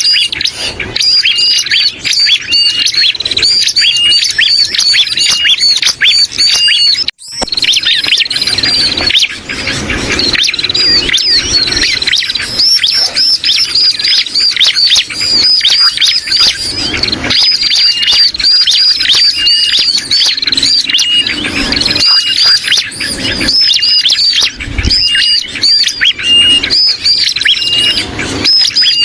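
Bird-lure recording of bar-winged prinia (ciblek) calls mixed with agitated and distress calls of sooty-headed bulbuls (kutilang), played as a lure to draw birds in. Dense, continuous high chirping with a short note repeating at even spacing. There is a brief break about seven seconds in.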